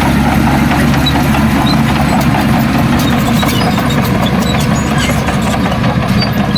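Heavy diesel engine of earthmoving machinery running steadily at low revs, an even low rumble with no change in speed.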